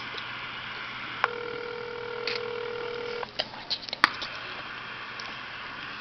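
Telephone ringback tone heard over a phone line: one steady two-second ring tone, the line ringing at the called end, over constant line hiss. It is followed by a few light clicks and one sharp click.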